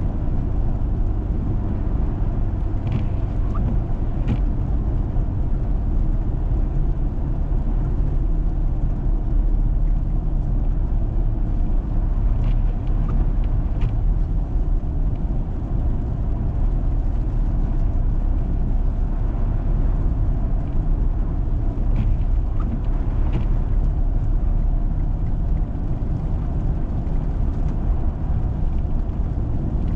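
Vehicle driving on a snowy road: a steady, even low rumble of engine and tyres. Faint short clicks come in pairs about every ten seconds.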